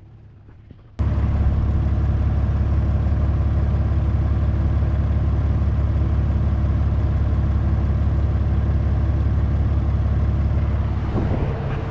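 A vehicle's engine runs at a steady speed with a loud, low drone. It cuts in suddenly about a second in and eases off near the end.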